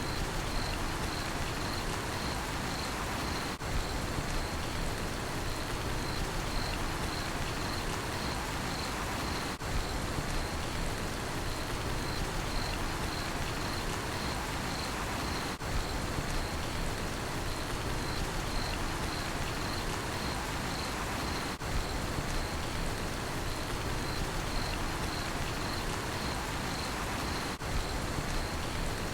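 Steady rain falling, with crickets chirping in a fast, regular pulse throughout.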